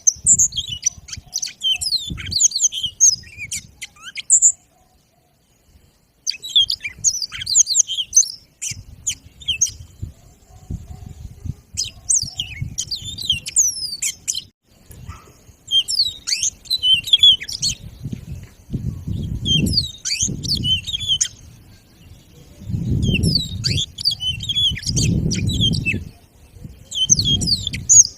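Yellow-fronted (Mozambique) canary of the granti subspecies singing a long, busy song of fast, high twittering phrases, broken by short pauses. A low rumbling noise sits beneath the song in the second half.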